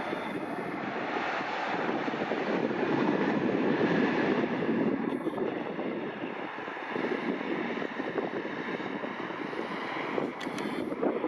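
Jet airliner engine noise, a steady rush that swells a few seconds in and then eases off, with some wind on the microphone.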